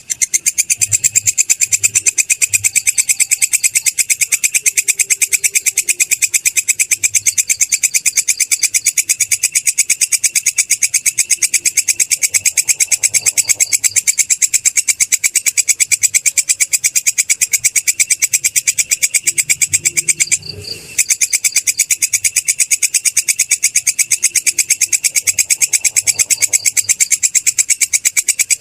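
Belalang kecek (kerik) grasshopper stridulating: a steady, high-pitched, very rapid train of even chirps. It stops for about half a second some twenty seconds in.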